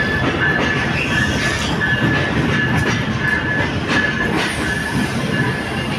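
Train moving along the rails: a loud, steady rumble with clatter every second or so, and a high squealing tone that keeps breaking off and coming back.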